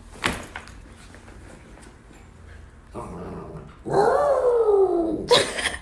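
A dog vocalizing: a long whining call that falls in pitch, about four seconds in, followed by a short, sharp sound near the end.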